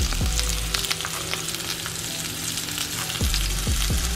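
Food sizzling as it fries, a steady hiss with dense crackling pops.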